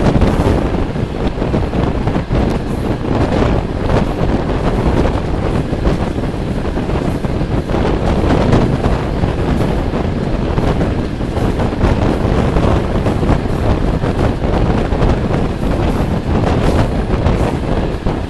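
Running noise of a moving passenger train: a steady rumble of the carriage's wheels on the rails, mixed with wind buffeting the microphone at an open window.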